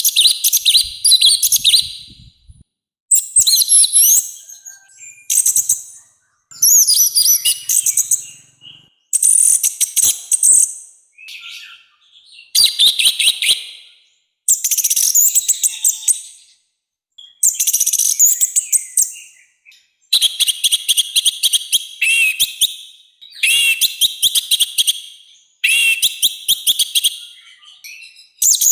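Orange-headed thrush singing a loud, harsh song: about a dozen dense, high-pitched phrases of one to two seconds each, with short pauses between them.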